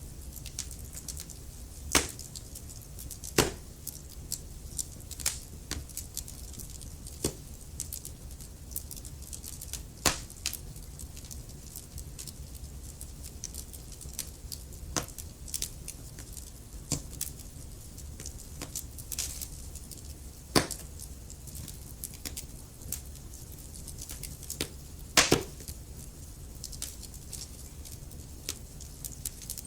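Wood fire in a fireplace crackling, with irregular sharp pops and snaps over a low steady rumble of the flames; a few louder pops stand out, the loudest about 25 seconds in.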